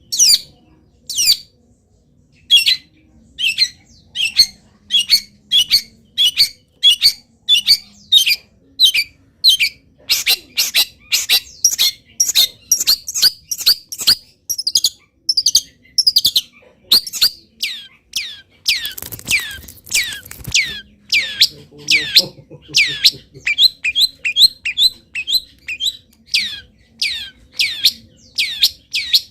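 Long-tailed shrike (cendet) calling in a long run of sharp, downward-sweeping notes. The notes come about once a second at first, then quicken to two or three a second, with a brief harsher, scratchy stretch about two-thirds through.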